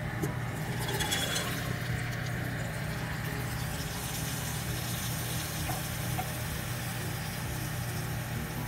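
Boiled chickpeas tipped into hot oil and onion-tomato masala in a steel pot. Sizzling picks up about a second in as they land, then carries on steadily while a spatula stirs, over a steady low hum.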